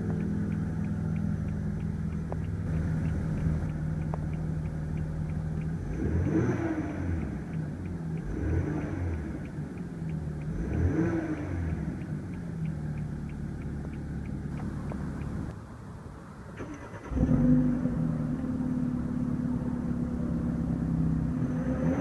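2014 BMW 328i's 2-litre turbocharged inline-four idling, blipped three times about two and a half seconds apart, each rev rising and falling back to idle. It goes quieter for a moment, then a louder, steady idle cuts in abruptly about three quarters of the way through.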